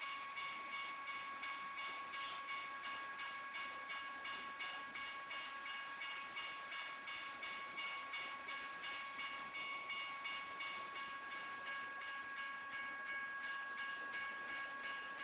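Railroad crossing's General Signals type 1 electronic bells ringing steadily, in a rapid even repetition of dings, over the continuous rumble of a train on the crossing.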